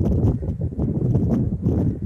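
Wind buffeting the microphone: a rough, uneven low rumble, with a few faint ticks over it.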